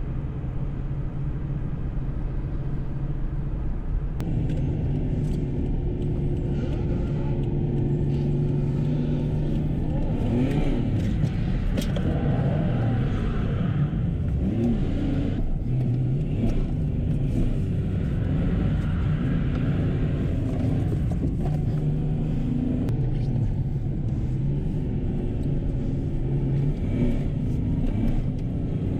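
Car engine running as the car drives off, its pitch rising and falling as it speeds up and slows.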